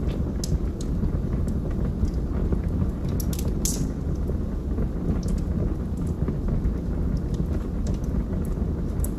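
Wood fire burning in a fireplace: a steady low rumble of flames with scattered sharp crackles and pops from the logs, a quick cluster of them about three and a half seconds in.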